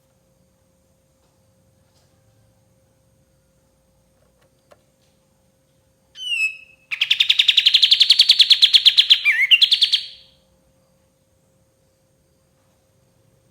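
Kapas tembak bulbul calling: about six seconds in, a short call of quick falling notes, then a fast rattling trill of about three seconds that ends in a twisting note. A faint steady hum lies underneath.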